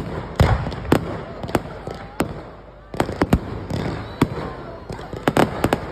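Fireworks going off: a run of sharp bangs and crackles at uneven intervals, the heaviest bangs about half a second in and again a little after three seconds.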